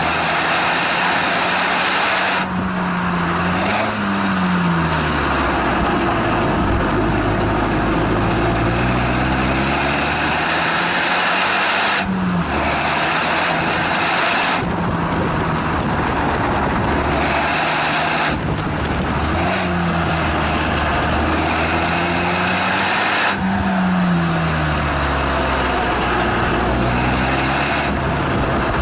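Exhaust note of a Renault Mégane Estate GT220's turbocharged four-cylinder engine at the rear of the car, lapping a circuit. The engine pitch climbs under acceleration and drops sharply several times as the driver lifts, changes gear and brakes. A loud rushing noise is heard under load and eases at each lift.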